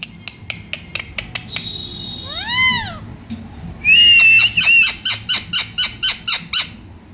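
Pet parrot vocalizing: a string of sharp clicks and a thin whistle, then one rising-and-falling meow-like call, then a held whistle that breaks into a rapid series of clicking chirps, about five a second.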